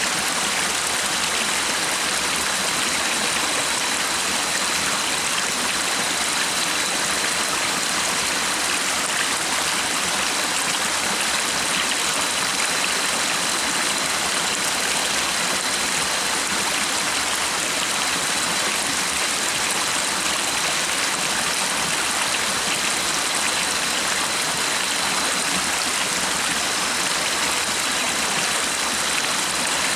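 Stream water running steadily, an even rushing and splashing with no breaks. A faint, steady high tone sits above the water.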